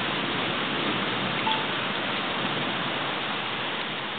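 Heavy thunderstorm rain pouring down in a steady hiss, with a faint short tone about a second and a half in.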